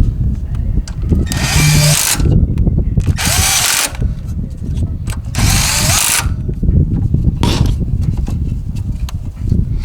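Impact wrench running the 10 mm bracket bolts down on a Ford Explorer alternator, in three bursts of just under a second each and a shorter fourth one, with metallic clatter between.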